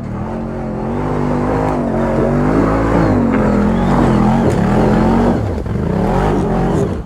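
ATV engine revving under load, its pitch rising and falling with the throttle, easing off briefly about five and a half seconds in before picking up again.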